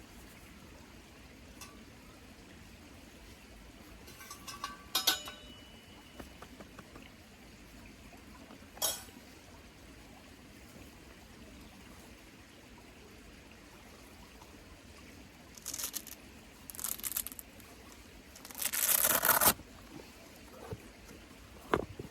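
Intermittent short scraping, crunching and pouring noises, several seconds apart, the longest near the end, as ash and spent embers are cleared out of a small solo fire pit.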